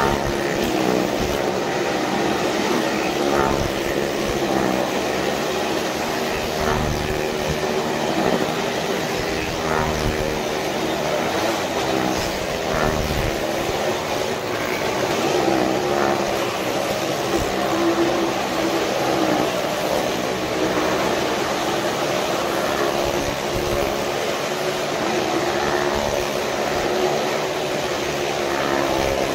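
Motorcycle and small-car engines revving continuously as they circle the wooden wall of a well-of-death drum, their pitch rising and falling.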